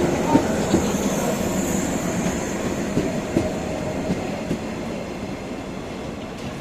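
Electric train set D24 rolling away from the station. Its running noise fades steadily, with scattered wheel clacks over the rail joints and a faint high wheel squeal about a second in.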